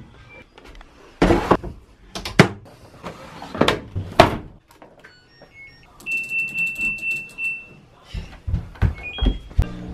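Several sharp knocks and thuds in a small room, as of a door or objects being handled. A steady high-pitched beep lasts about a second and a half past the middle, followed by a few more thuds.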